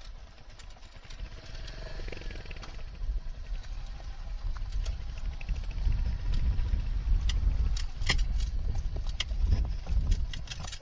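Motorcycle running as it rides off, growing louder about halfway through.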